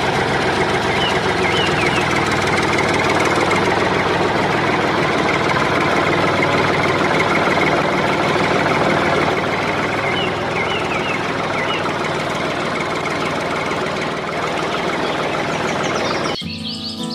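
An engine running steadily, with a few faint high chirps about a second in and again around ten seconds in; it cuts off abruptly near the end.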